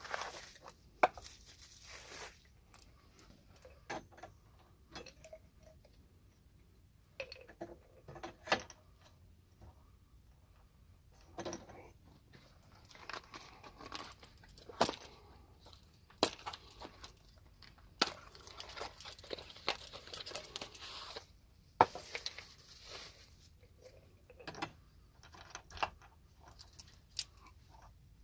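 Metal tools and fittings handled during an air vent replacement: irregular sharp clinks and knocks with short stretches of scraping and rustling.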